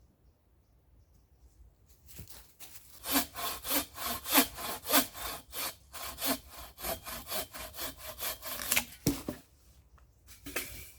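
Hand saw cutting wood: a steady run of back-and-forth strokes, about three a second, starting about two seconds in and stopping after about nine seconds, then two or three single strokes near the end.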